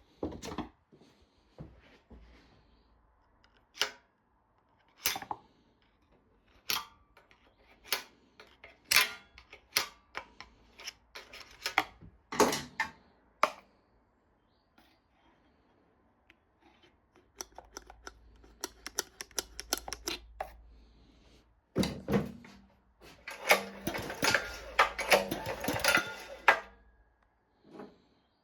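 Scattered clicks, knocks and light metallic rattles of tools and parts being handled. A dense run of rattling clicks comes over a low hum near the end. No engine running.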